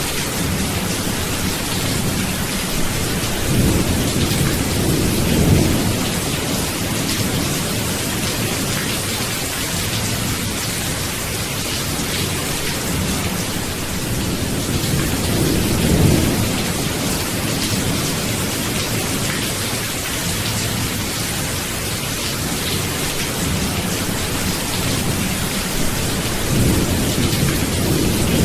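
Steady heavy rain hissing, with low rumbles of thunder swelling and fading three times: a few seconds in, around the middle, and near the end.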